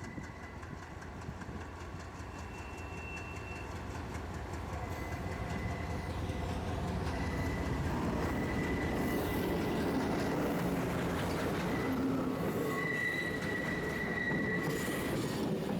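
Metre-gauge train running on the rails, its rumble growing louder over the first half, with thin, high wheel squeal coming and going throughout.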